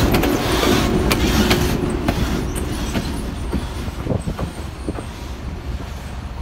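Diesel locomotive and its passenger cars rolling away down the track, the engine's low rumble under sharp clicks of wheels crossing rail joints, fading steadily as the train moves off.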